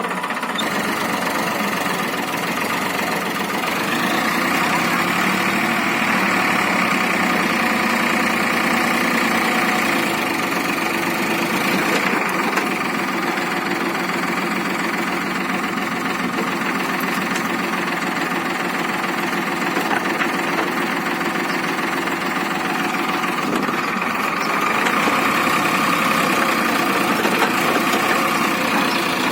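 Tractor engine running steadily, getting louder about four seconds in and again near the end.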